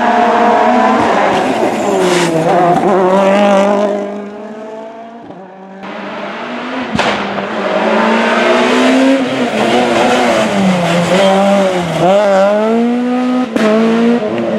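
Rally car engines at full race pace, revving up and dropping back through gear changes. About four seconds in the sound fades, then comes back up with a sharp crack about seven seconds in, and the revs rise and fall again.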